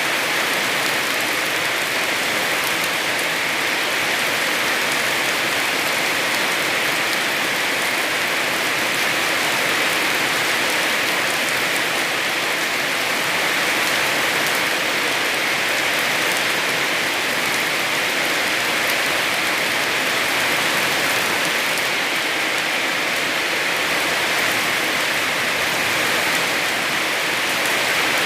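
Heavy rain falling steadily in an even, dense hiss, with the patter of drops on surfaces.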